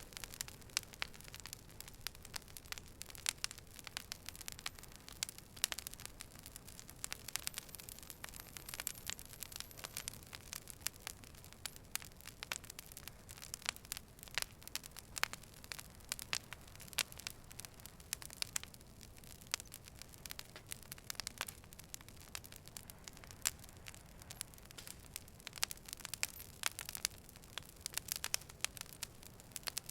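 Fire burning, with frequent sharp, irregular crackles and pops over a soft steady hiss.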